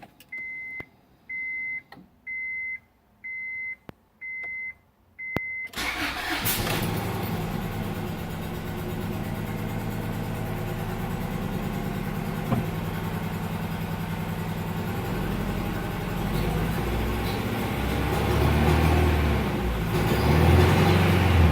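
A dashboard warning chime beeps six times in a steady rhythm. About six seconds in, the 1998 Acura Integra GS-R's 1.8-litre DOHC VTEC four-cylinder starts and settles into a steady idle. Near the end its note rises and falls with a few light revs.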